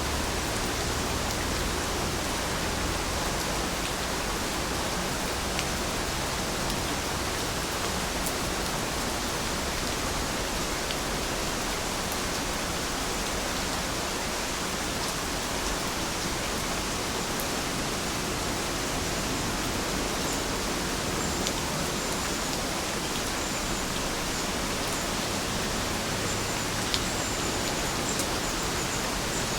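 Steady rainfall, an even hiss with no let-up, with an occasional sharper drop tick.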